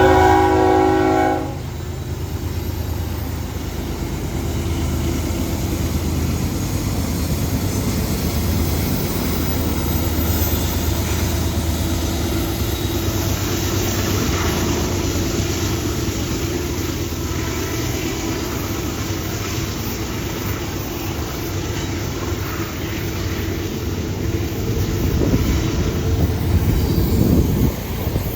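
A diesel locomotive's horn sounds a chord that cuts off about a second and a half in, then the steady low rumble of diesel engines and the rolling noise of a CSX freight train passing, growing a little louder near the end.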